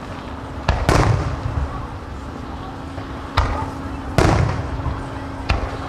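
Aerial fireworks shells bursting overhead: five booms that echo briefly. The loudest come about a second in and just past four seconds, with lighter reports between and near the end.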